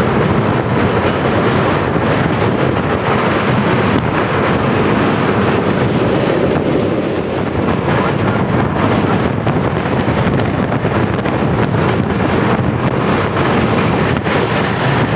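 The 18450 Baidyanath Dham Express running at speed, heard from on board: a loud, steady running noise of the wheels on the rails.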